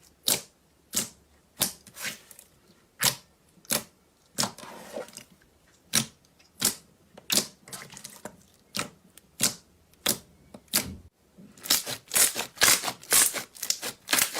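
Slime being played with, making sharp clicky pops about one and a half times a second, then a quick run of many pops near the end.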